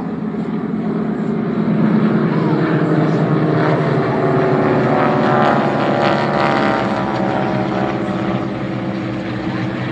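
Propeller aircraft flying overhead: a steady engine drone that swells over the first few seconds and slowly fades as it passes.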